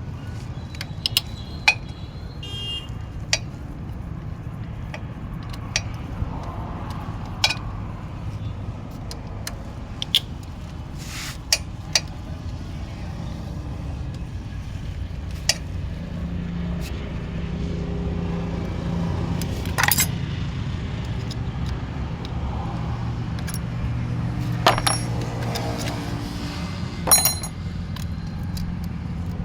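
Scattered sharp metallic clinks and taps of tools and engine parts being handled during an engine teardown, over a steady low rumble.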